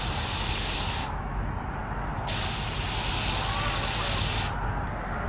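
Water spraying hard from a hose while a container is filled. The spray cuts off about a second in, comes back a little over a second later for about two seconds, then stops abruptly.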